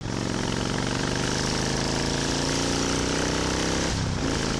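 Harley-Davidson V-twin motorcycle engine running under way, its pitch slowly rising as it pulls, then breaking and dropping near the end as the throttle eases off.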